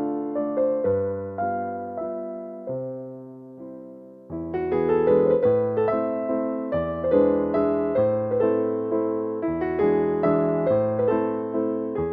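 Background music played on an electric piano: a gentle melody of struck notes that die away, thinning to a few fading notes before picking up again, fuller, about four seconds in.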